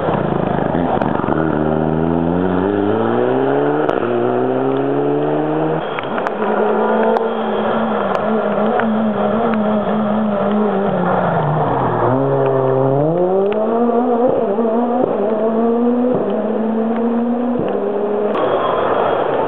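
Racing car engine revving hard: its pitch climbs twice in quick succession in the first seconds, then holds steady, drops away about twelve seconds in and climbs back up, with a few sharp clicks along the way.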